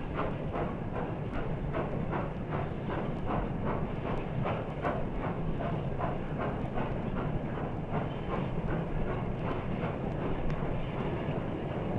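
Steam locomotive working steadily, its exhaust chuffing in an even beat of about three a second over a low rumble.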